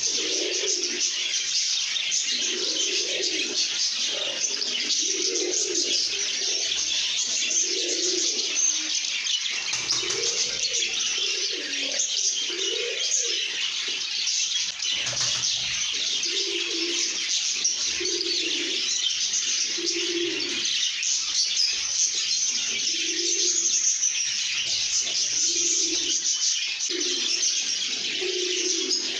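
A flock of lovebirds chattering and chirping without pause, many shrill calls overlapping. Under it, a low call repeats about every second and a half.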